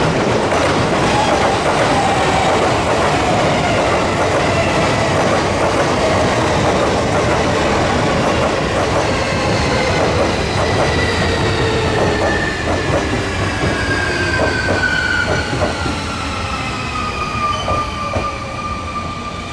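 Sotetsu Line electric train braking into the station: its motor whine falls steadily in pitch while the wheels click over the rail joints.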